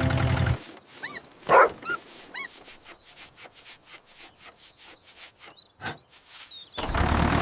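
A puppy yipping a few times, with one louder bark among the yips, followed by faint, regular ticking.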